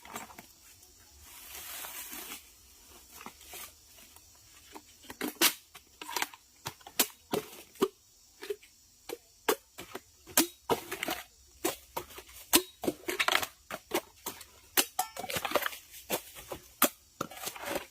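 Copper being cut by hand: an irregular run of sharp clicks and snips, with a brief hiss about two seconds in.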